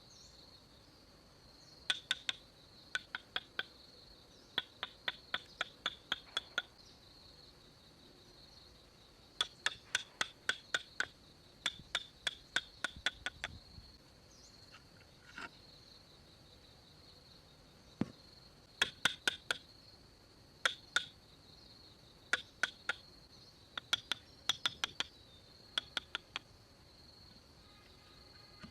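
Hand-tool strikes on wood in bursts of sharp knocks, about four a second, with pauses between bursts. A steady high-pitched insect chirring runs underneath.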